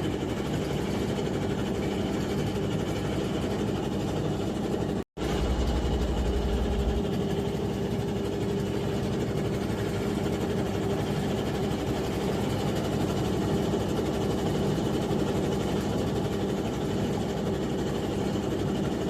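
Squid jigging vessel's engines and machinery running with a steady drone and hum; the sound cuts out for an instant about five seconds in.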